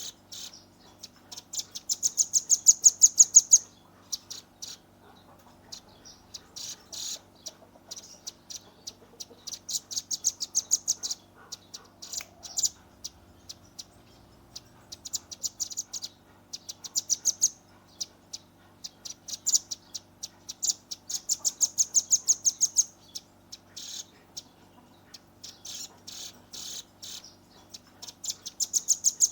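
Velvet-fronted nuthatch (rambatan paruh merah) calling in rapid trills of sharp, high notes. The trills come in bursts a second or two long with short pauses between, over a faint steady hum.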